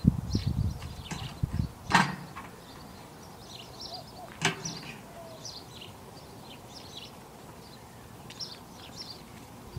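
Small birds chirping outdoors in short, repeated high calls. A few low bumps come in the first two seconds, and two sharp clacks come about two seconds and four and a half seconds in.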